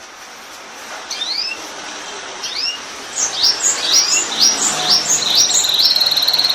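Canary singing: a string of short upward-sweeping chirps that come faster and faster, then a rapid rolling trill about five seconds in.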